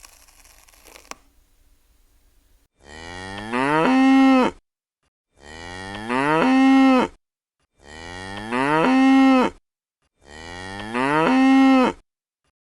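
An animal's drawn-out call, repeated four times identically at regular intervals. Each call rises in pitch and then holds a steady note for about two seconds. A brief rustle comes in the first second.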